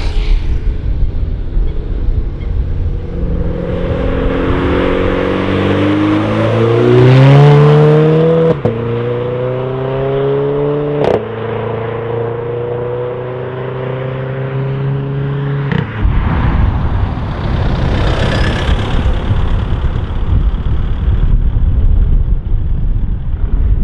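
Renault Clio RS's turbocharged four-cylinder accelerating hard away through the gears. The engine note climbs, breaks with a sharp crack at each of two quick upshifts, climbs again, then cuts off suddenly about two-thirds of the way through. Wind and road noise come before and after.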